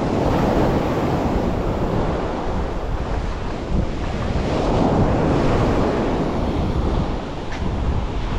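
Waves washing onto a beach, swelling about half a second in and again around five seconds, with wind buffeting the microphone as a steady low rumble.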